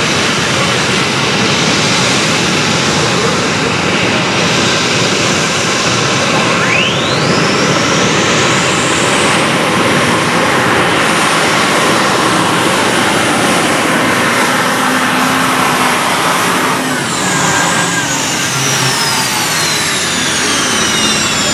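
Modified pulling tractor engine running loud and steady under power, with a high whine that rises sharply about seven seconds in and another high whine that falls slowly over the last four seconds.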